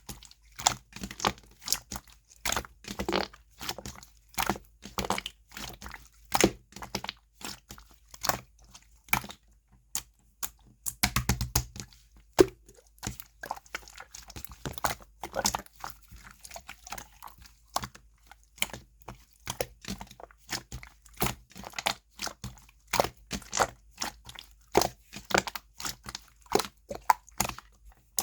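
Slime being pressed, poked and stretched by hand, making a steady run of crisp clicks and crackles a few times a second, with a brief pause about ten seconds in.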